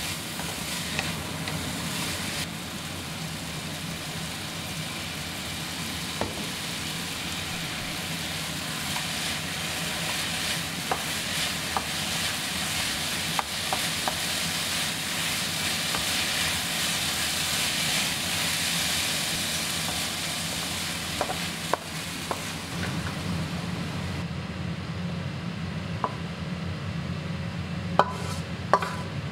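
Shredded potato stir-frying in a wok: hot oil sizzling steadily while a wooden spatula scrapes and turns it. About 24 seconds in the sizzle dies away, and a few sharp knocks follow near the end as the potatoes are tipped from the wok onto a plate.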